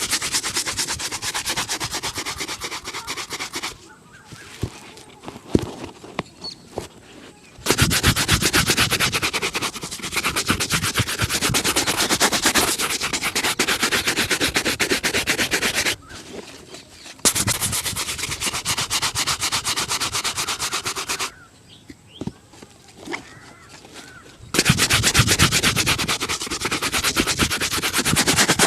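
A shoe being buffed by hand with rapid back-and-forth rubbing strokes, in several long runs broken by short pauses that hold only a few light taps.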